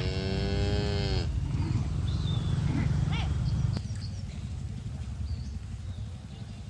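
A cow mooing once, a call of about a second whose pitch falls at the end. A low rumbling noise runs underneath and drops away about four seconds in.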